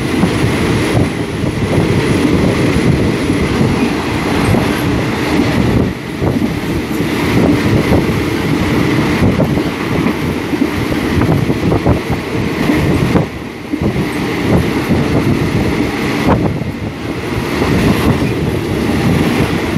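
Train rolling along the track: a steady, loud rumble with short irregular clacks of the wheels over the rail.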